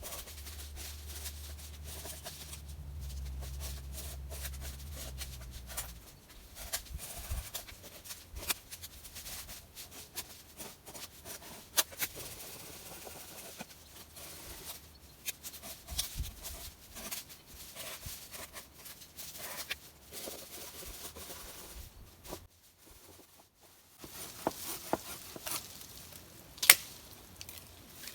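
Firewood being gathered and worked by hand: irregular cracks, knocks and rustles of sticks and branches, with one sharp crack near the end.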